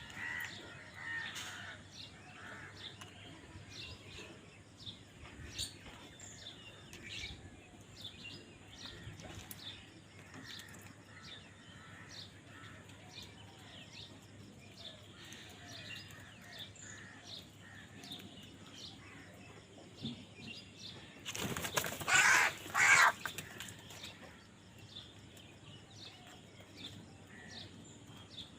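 Birds calling outdoors, many short chirps and calls scattered through, from the crows and other birds around them. About three-quarters of the way in comes one loud, harsh burst lasting about two seconds, with two peaks.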